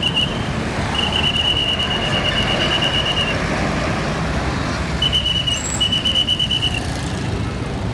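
Roadside traffic with heavy trucks passing, a steady rumble and tyre noise. A shrill, high, slightly warbling tone sounds in several long blasts over it: one about a second in lasting about two seconds, then two shorter ones past the middle.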